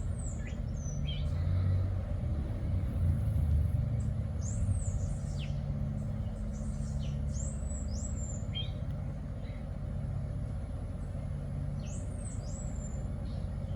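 Birds chirping: short high calls that sweep sharply downward, several times and often in pairs, over a steady low rumble.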